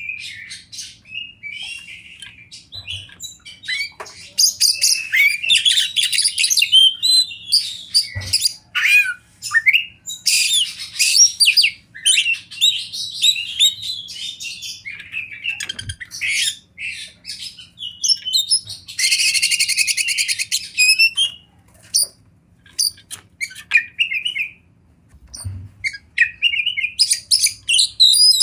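Oriental magpie-robin singing a long, varied song of rapid whistles, trills and chatters. About two-thirds of the way through comes a harsh buzzing rattle, and the song pauses briefly twice near the end.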